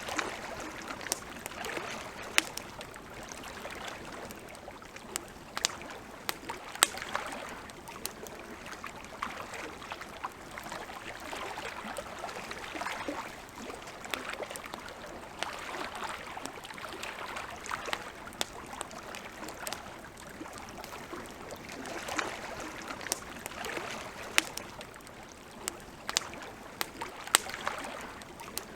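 Campfire crackling, with sharp irregular pops and snaps over a soft rushing background that rises and falls every few seconds.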